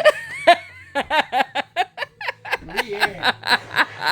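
People laughing in a run of quick short bursts, with a little talk mixed in.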